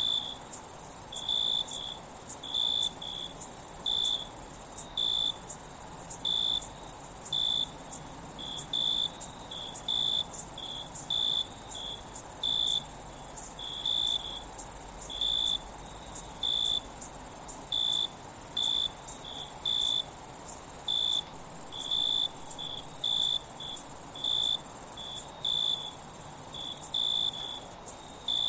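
Night insects: a steady high-pitched trill, with crickets chirping over it in short chirps about once or twice a second.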